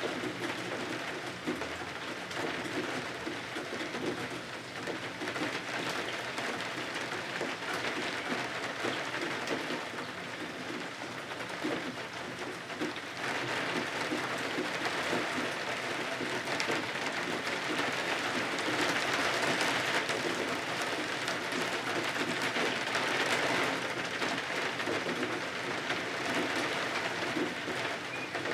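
Steady rain falling outside, a continuous even hiss that grows a little heavier from about halfway through.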